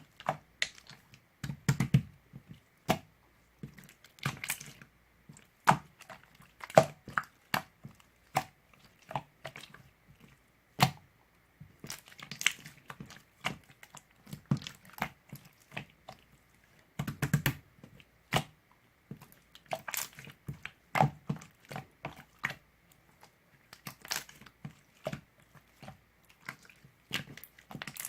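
Irregular close-up clicks, taps and crunches, a few with a dull low thump, at an uneven pace of a few a second.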